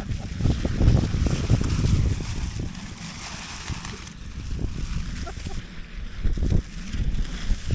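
Wind gusting across the microphone: an uneven low rumble of buffeting over a steady rushing hiss, swelling and easing over several seconds.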